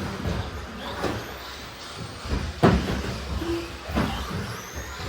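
Three sharp knocks over a low rumble, the loudest about two and a half seconds in.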